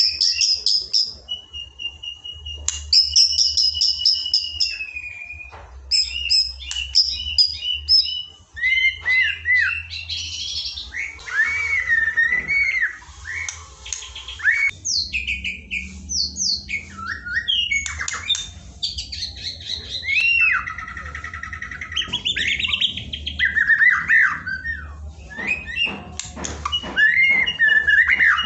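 Canaries and sogon birds singing in a dense, unbroken stream of quick chattering trills and sharp rising and falling whistles, with a few longer held notes. A faint low hum runs underneath.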